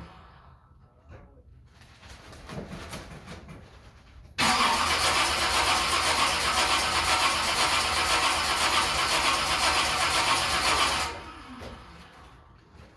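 Car engine on its first cold start of the season. It runs quieter at first, then a loud burst of engine noise comes in suddenly about four seconds in and drops away about eleven seconds in.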